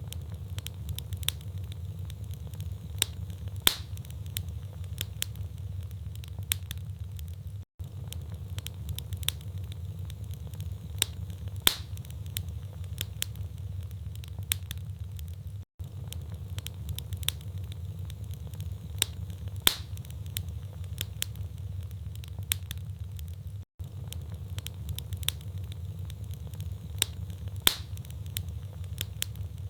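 Wood fire in a fireplace crackling, with frequent small snaps and a few louder pops over a steady low rumble. The same stretch repeats about every eight seconds, each time after a brief dropout.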